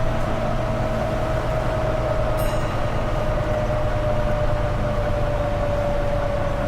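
Volvo B9TL double-decker bus's turbocharged diesel engine under way: a steady turbo whistle, slowly falling in pitch, over the engine's low rumble.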